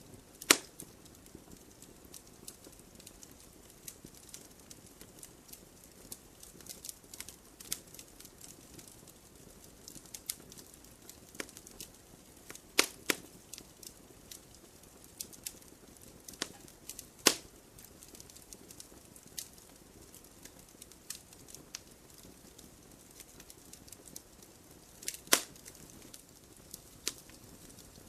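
Wood campfire crackling and popping, with sharp snaps at irregular moments over a low steady hiss. The loudest pops come about half a second in, around 13 s and 17 s, and near 25 s.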